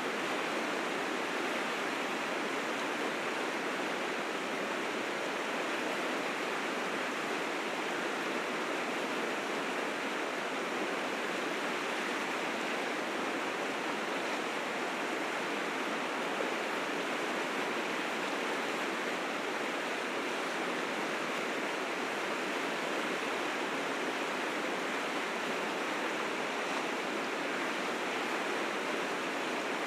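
River rapids rushing in a steady, dense torrent, swollen with spring meltwater.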